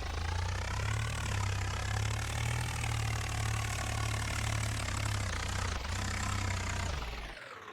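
Swaraj 855 tractor's three-cylinder diesel engine running steadily, then cutting off abruptly near the end.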